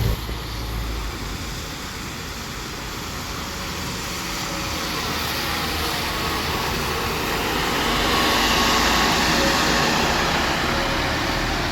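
Scania N230UD ADL Enviro 400 double-decker bus heard from on board: engine and road noise building steadily over the first nine seconds or so, then holding.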